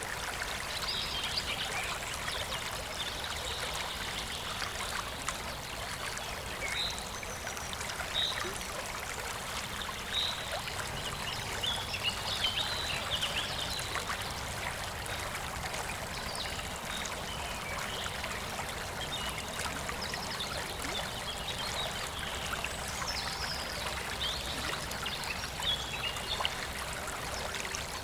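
Shallow stream of clear water flowing and trickling steadily, with short high-pitched notes scattered through.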